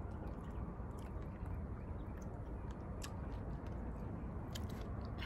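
Mouth sounds of people eating chicken feet: chewing and biting, with scattered wet clicks and smacks over a steady low background rumble.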